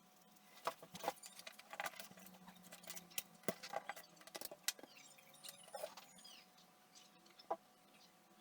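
Irregular light clicks, taps and short scrapes of hands and small tools working on a small old transistor radio, over a faint steady hum.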